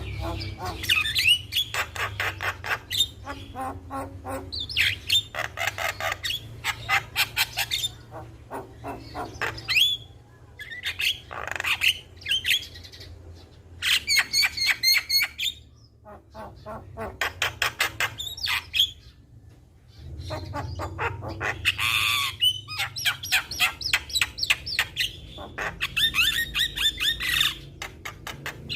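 Javan myna (jalak kebo) singing in long bouts of rapid, harsh repeated notes and squawky calls, broken by short pauses.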